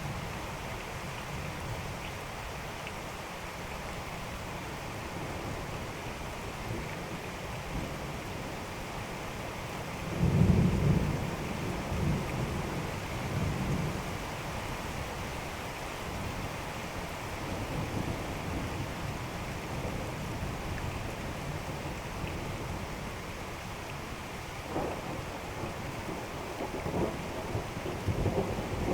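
Steady rain falling during a thunderstorm, with rolling thunder rumbling over it. The loudest rumble comes about ten seconds in and lasts a few seconds, and more rumbles build near the end.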